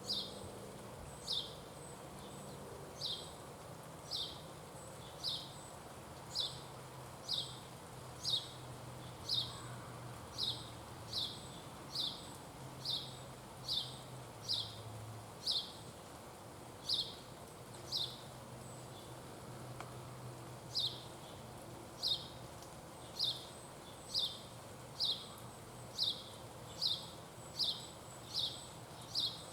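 A bird giving a short, sharp, falling call note over and over, about once a second, with a faint low hum beneath.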